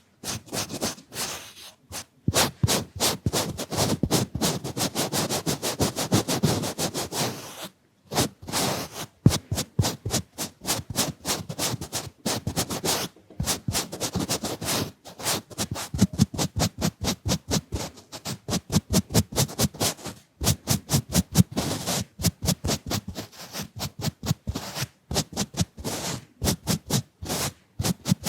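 Makeup fan brush swept rapidly back and forth, making quick brushy strokes about three to four a second, with a few short pauses.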